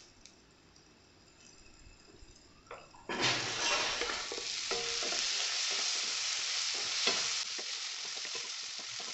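Chopped tomatoes dropped into a kadai of onions and green chillies frying in hot oil, setting off a sudden loud sizzle about three seconds in. The sizzle carries on as the mixture is stirred with a spatula, with scraping strokes against the pan.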